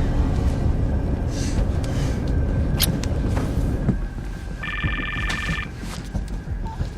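Steady low rumble of an airliner cabin in flight. About two-thirds of the way through, a phone gives a single electronic ring, a rapid warbling trill lasting about a second.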